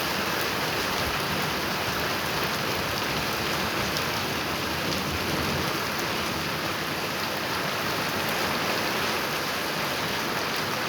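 Steady heavy rain falling on surfaces, an even hiss with scattered drop ticks.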